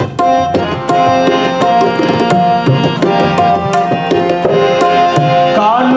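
Instrumental interlude of Sikh kirtan: tabla playing a steady stream of strokes under a harmonium melody of held notes. A singing voice comes back in near the end.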